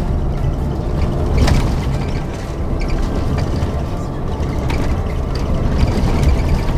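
Vehicle riding over a rough road, heard from inside: a heavy, steady rumble with rattling, and a sharp jolt about a second and a half in.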